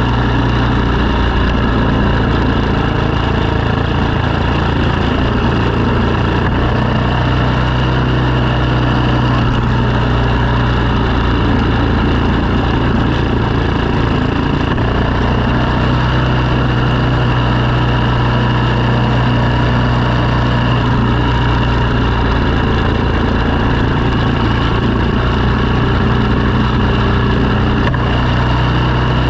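An engine running steadily under load, its low hum dipping for a few seconds around the middle before settling back.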